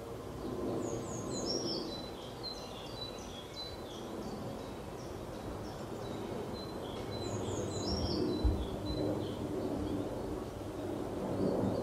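A songbird sings the same short phrase twice, several seconds apart, each starting with a few high falling notes and running into a string of quicker notes. Under it is a steady low outdoor rumble, with a dull low thump about two-thirds of the way through.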